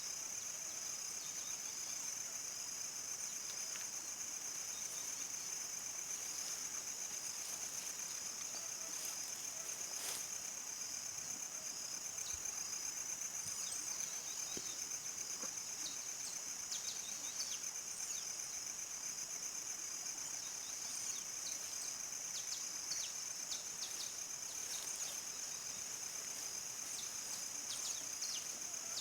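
Crickets singing at dusk in a steady, high, fast-pulsing trill, with short bird chirps dotted through it, more of them in the last several seconds.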